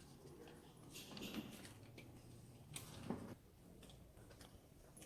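Near silence with scattered faint clicks and two slightly louder soft knocks, about a second and a half apart.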